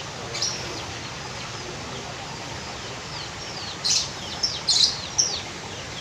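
Birds chirping: a running string of short, quick falling chirps, with a few louder calls a little past the middle.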